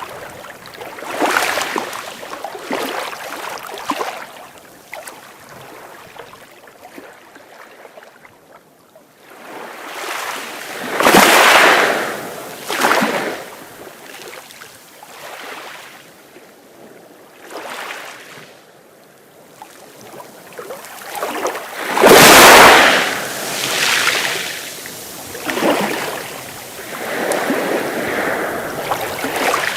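Sea waves breaking and washing up the shore in surges that swell and fade every few seconds. The biggest wave comes about two-thirds of the way through.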